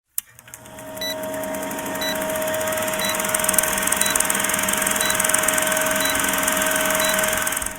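A steady whirring hum with a short high electronic beep about once a second, fading in at the start and cutting off abruptly at the end.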